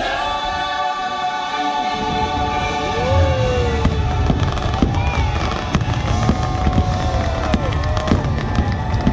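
Fireworks display with music playing: a held musical chord, then from about three seconds in a rapid run of sharp bangs and crackles over a low rumble while the music goes on.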